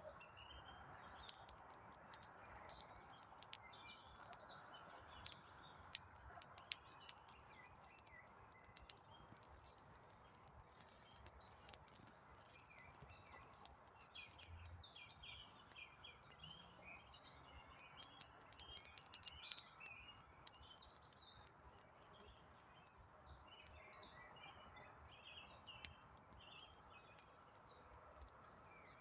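Faint forest birdsong, many small birds chirping throughout, over a wood campfire giving occasional sharp crackles and pops. The loudest pop comes about six seconds in, and a cluster of crackles comes around twenty seconds in.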